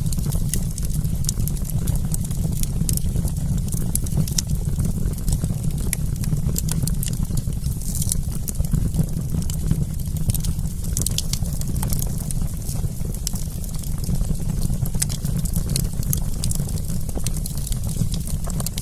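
Wood campfire crackling, with frequent small sharp pops over a steady low rumble.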